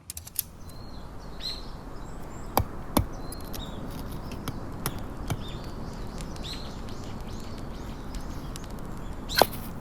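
Small birds chirping repeatedly over a steady outdoor background, with a few sharp knocks: two close together about two and a half seconds in and a louder one near the end.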